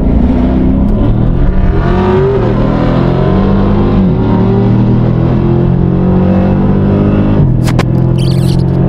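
Dodge HEMI V8 under hard acceleration down a drag strip, running loud and steady and upshifting about two, four and seven and a half seconds in, its pitch dropping sharply at each shift.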